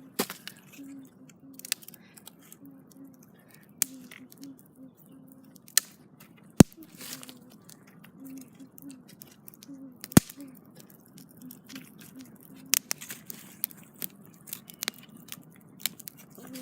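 Wood campfire crackling, with irregular sharp pops and snaps and a few louder cracks.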